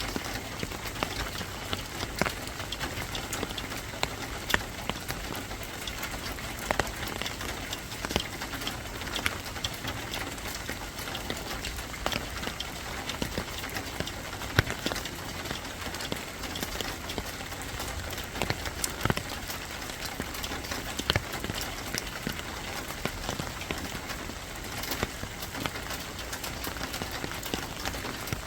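Steady rain falling, with scattered sharp drips and taps at irregular moments.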